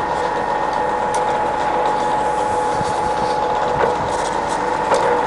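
Scott 6250L centre lathe running, its headstock gearing giving a steady whine with two held tones over an even mechanical rattle and a few light ticks, as it is taken through its spindle speeds.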